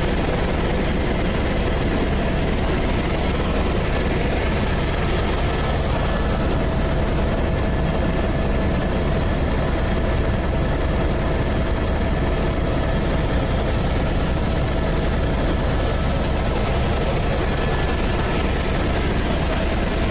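Helicopter in flight, heard from inside the cabin: a steady, loud rotor and engine noise, heavy in the low end, with a faint steady whine over it.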